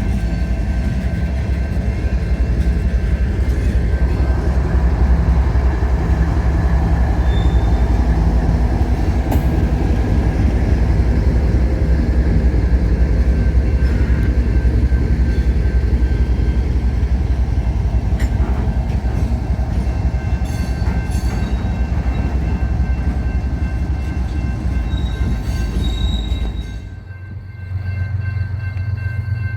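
Train rolling past, a steady heavy rumble of wheels on rail with faint thin squeals above it. About 27 seconds in it cuts off abruptly and gives way to a quieter steady low drone.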